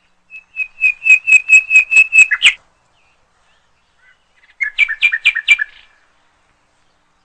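A songbird singing two phrases. The first is a run of about nine clear, whistled notes at a steady pitch, about four a second, ending on a sharper note. The second, a couple of seconds later, is a shorter, quicker trill of two-pitched notes.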